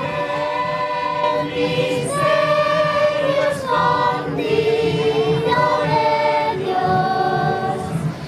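A mixed choir singing a Christmas piece, sustained chords moving from note to note. The singing briefly breaks off near the end and resumes.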